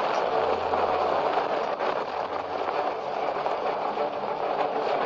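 Film soundtrack of continuous dense rumbling noise, with a low hum that swells and fades a few times.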